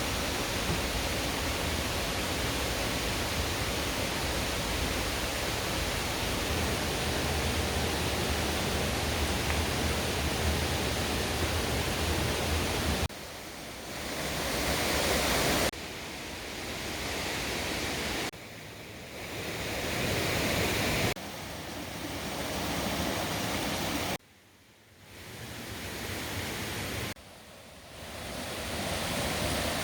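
Rushing water of a mountain valley stream pouring over rocks, a steady full hiss. From about halfway through it cuts off and comes back every few seconds, each time dropping sharply and then swelling up again.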